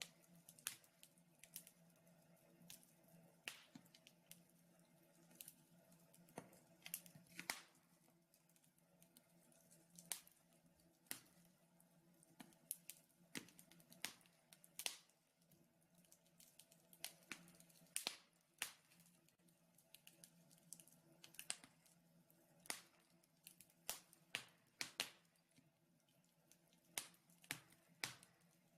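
Wood fire burning in a fireplace, crackling with irregular sharp pops and snaps, over a faint steady hum.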